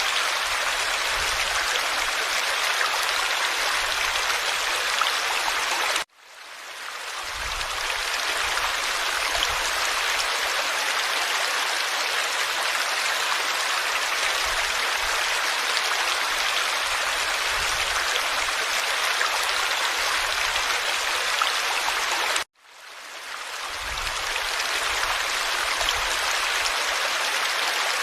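Forest stream flowing, a steady rushing and babbling of water. The sound cuts out suddenly twice, about six seconds in and again about 22 seconds in, each time swelling back up over a second or so.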